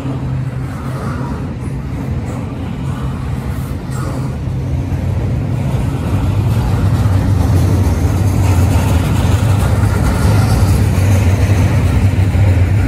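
Double-stack container train passing slowly at close range: steel wheels rumbling steadily on the rails, growing louder about six seconds in.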